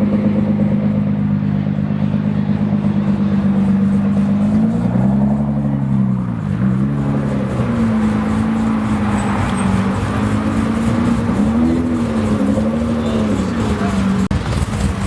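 A car engine running steadily, then revved several times, its pitch rising and falling smoothly before settling back.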